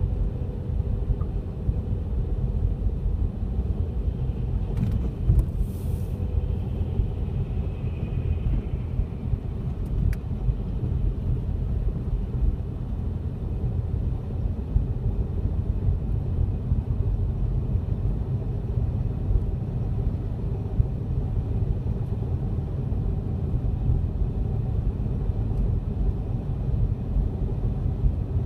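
Steady low rumble of a car being driven, road and engine noise, with a few faint clicks about five and ten seconds in.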